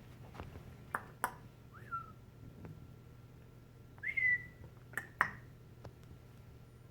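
Pet bird whistling: a short falling note about two seconds in and a longer note about four seconds in that rises and then holds, the loudest sound. Two pairs of short sharp clicks come about one second and five seconds in.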